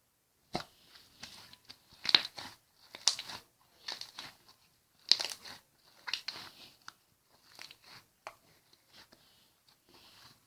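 Slime being squeezed and pressed by hand, giving irregular crisp crackling pops and squelches.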